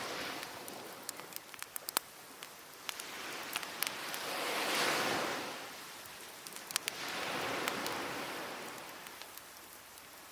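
Wood fire crackling, with many sharp pops and snaps, over sea waves washing onto the shore in slow swells that are loudest about five seconds in and again near eight seconds.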